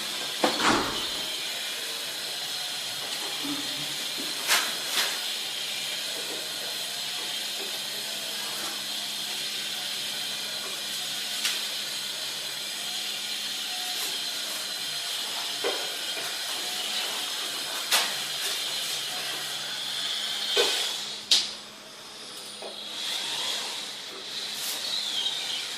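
Steady hiss with a faint low hum, broken by a few sharp knocks. The hiss drops away about 21 seconds in and comes back briefly near the end.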